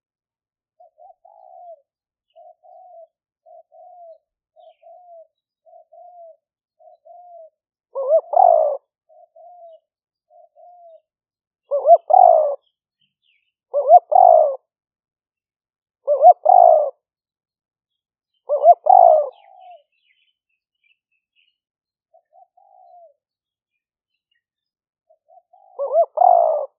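Spotted dove cooing: a run of soft, short coos, then loud phrases of about a second each, repeated every two or three seconds, with a longer pause before the last one.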